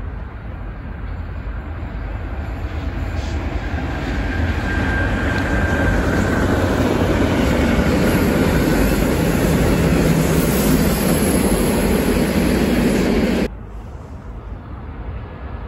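Freight train running past on an electrified line: the rumble of wheels and wagons grows louder over the first few seconds and then holds steady. It cuts off abruptly about two seconds before the end, leaving a quieter rumble.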